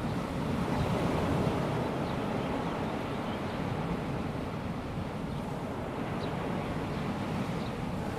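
Calm sea breaking in small waves on a sandy beach: a steady, even wash that swells gently now and then.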